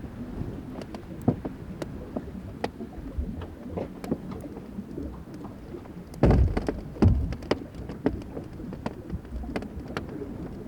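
Fláajökull glacier ice melting and breaking: many irregular drips, ticks and small cracks over a low rumble, with a louder burst of cracking about six seconds in.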